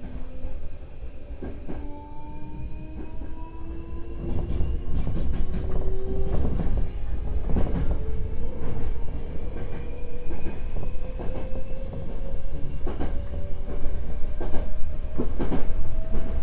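Hankyu 8000 series electric train heard from inside the passenger car, picking up speed. Its motor whine rises steadily in pitch and the running noise grows louder, over a low rumble, with the wheels clicking over rail joints.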